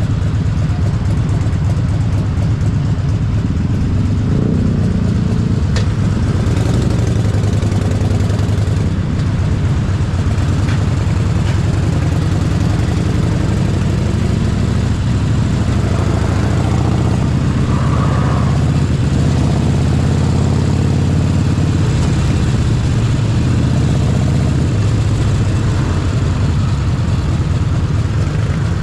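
Harley-Davidson Forty-Eight Sportster 1200's air-cooled V-twin engine running under way at an even pace, a steady low rumble.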